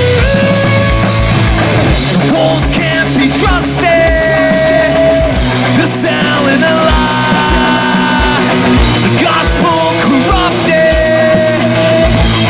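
Live rock band playing a loud instrumental passage: distorted guitars, bass and drums, with a held, bending lead melody line on top and a steady kick-drum beat in the second half.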